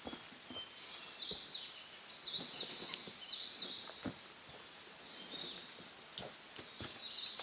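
A songbird singing short phrases of high, wavering notes in two bouts with a pause between, over scattered light knocks.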